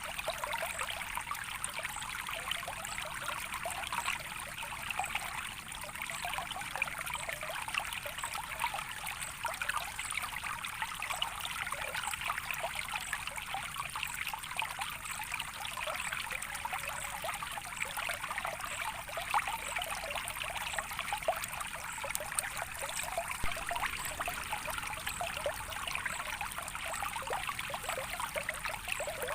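A small stream of water trickling and flowing steadily, a light, splashy sound of many tiny splashes without deep rumble.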